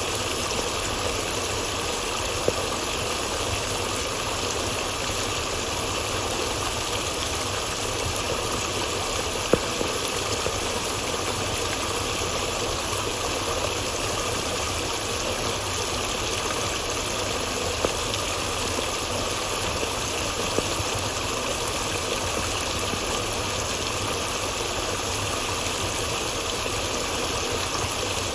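Steady rushing of flowing water, an even unbroken sound with a few brief sharper sounds standing out from it.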